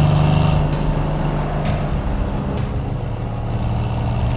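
Mercedes-AMG C63S twin-turbo V8 running at low revs while driving in traffic, with road noise; its steady hum drops a little in pitch about two seconds in. Faint clicks come roughly once a second.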